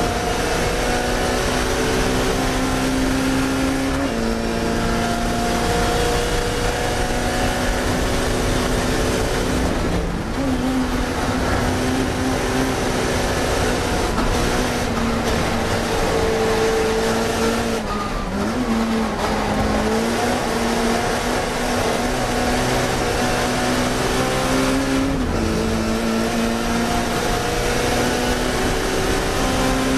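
Racing touring car engine running hard at steady high revs. The pitch drops and picks up again at a few points, like lifts or gear changes.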